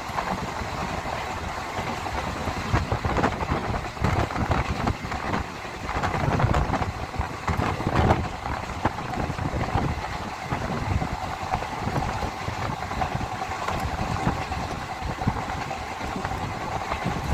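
Running noise of a moving train heard from on board: a steady rumble with rattling and clatter of wheels on the track, louder for a few seconds near the middle.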